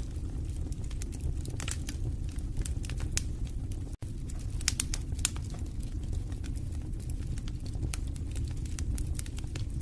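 Wood fire crackling in a fireplace: irregular sharp pops and snaps over a steady low rumble of the flames, with a split-second gap about four seconds in.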